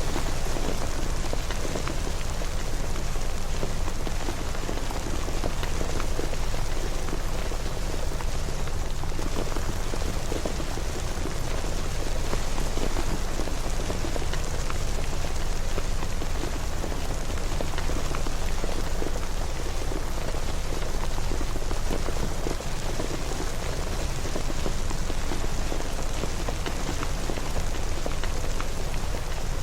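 Steady rain falling on a surface, an even hiss with dense fine patter of drops and a low rumble underneath.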